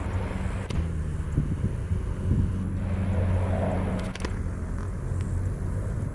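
Sikorsky HH-60G Pave Hawk helicopter's engines and rotor making a steady low rumble, with a few faint sharp clicks.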